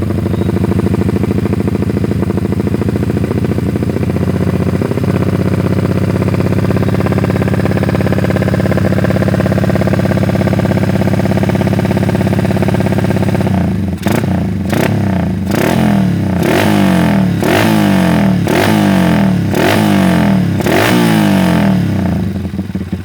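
Yamaha Vixion's single-cylinder four-stroke engine, running on a swapped-in carburettor, sounding through an aftermarket ProLiner exhaust. It idles steadily at first, then a little past halfway it is blipped through a run of short revs, roughly one a second, before dropping back toward idle near the end.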